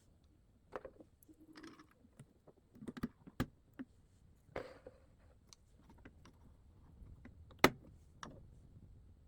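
Hands handling a sewing machine's parts and thread: scattered small clicks, taps and brief rustles, with one sharp click much louder than the rest about seven and a half seconds in. No motor is running.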